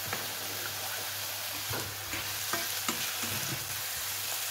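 Chicken, mushrooms, onion, garlic and ginger sizzling steadily in hot oil in a frying pan, with scattered clicks and scrapes from a spatula stirring them.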